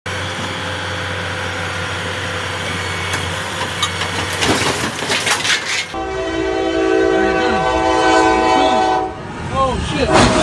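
A steady rumble with a burst of clattering knocks, then a train horn sounding one long steady chord for about three seconds.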